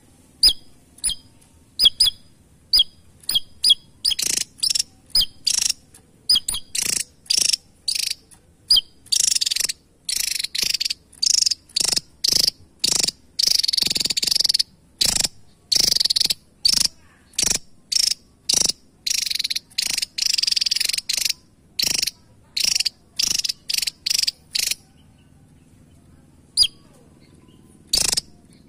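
Javan tesia calling: a few sharp single notes, then a fast series of short, harsh high bursts at about two a second for some twenty seconds, and near the end two lone notes.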